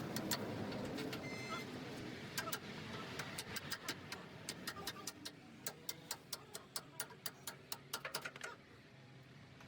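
A quick run of sharp, light taps, about three to four a second for some six seconds, like a tool striking metal in the workshop, before stopping.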